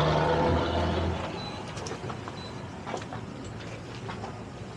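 Towboat engine running hard under load, then throttled back sharply about a second in, leaving a quieter steady idle with a few light knocks. The towboat has just run aground.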